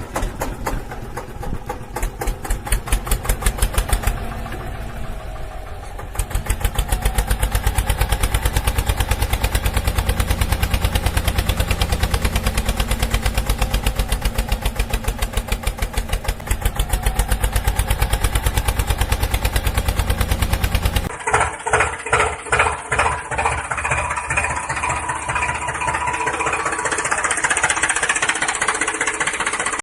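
Small engine of a home-made mini tractor running with a rapid, even putter, louder from about six seconds in; the sound changes abruptly about two-thirds of the way through, as at a cut, and keeps pulsing.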